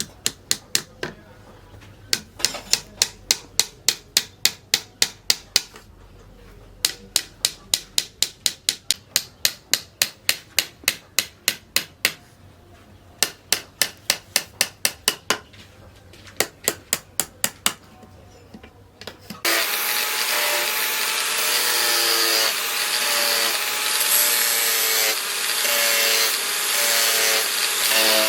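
Runs of hammer blows on steel at an anvil, about three a second, with short pauses between runs. About three-quarters of the way through, a power grinder starts abruptly on the steel and keeps running with a wavering whine.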